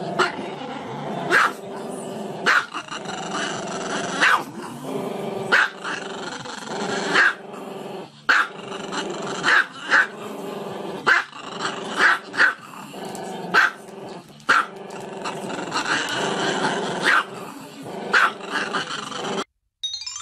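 A small black-and-tan dog howling in long drawn-out calls, broken by short sharp barks about every second. The sound cuts off suddenly near the end.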